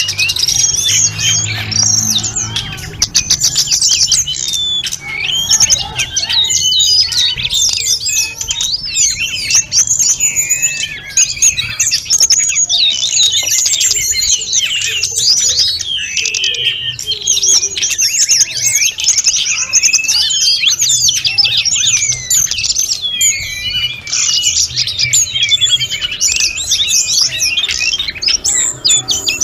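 A Sunda robin (tledekan gunung) singing a continuous, varied song, a dense run of high whistles, trills and chirps with hardly a pause.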